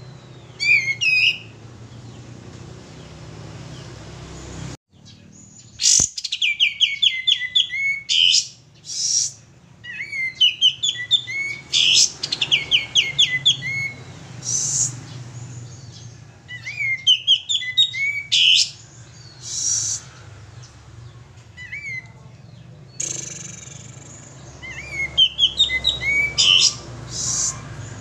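Male sooty-headed bulbul singing energetically, in about five separate bursts of rapid, sweeping chirping notes. A steady low hum runs underneath.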